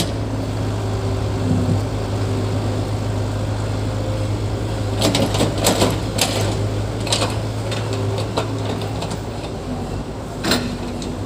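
A bulldozer running with a steady low hum. Clattering knocks come about five to seven seconds in and once more near the end.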